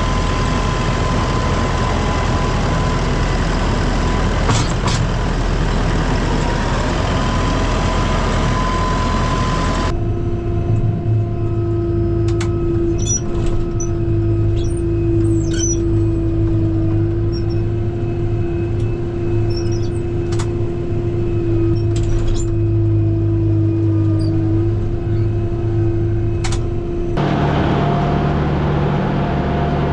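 Farm machinery engines running steadily across three shots, the sound changing abruptly twice. In the middle shot there is a steady hum with scattered light clicks.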